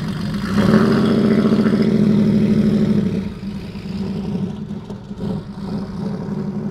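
RUF sports car's Porsche 911-based flat-six engine pulling away under throttle. It comes on louder about half a second in, then eases back about three seconds in and keeps running at a lower level.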